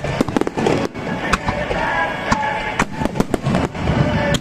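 Fireworks exploding in a rapid, irregular string of sharp bangs and crackles.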